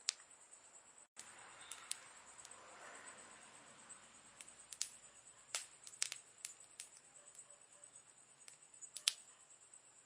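Wood campfire crackling: sharp, irregular pops and snaps, the loudest about nine seconds in, over a soft hiss of burning.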